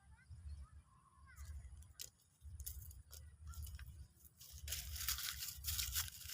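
Faint short bird chirps in the first two seconds, then loud rustling, crackling noise from about two-thirds of the way in, over a pulsing low rumble.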